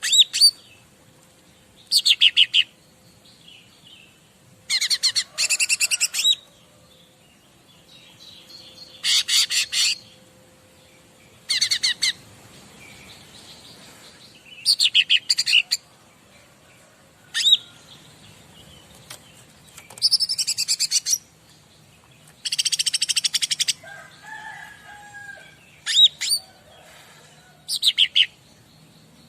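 Cica ranting songbird singing: short, rapid, high trilled phrases, about a dozen, repeated every two to three seconds.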